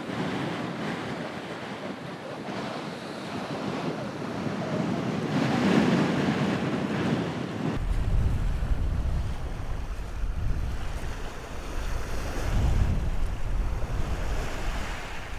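Strong wind on an exposed coast, a steady rushing noise. About eight seconds in, wind starts buffeting the microphone with a low rumble.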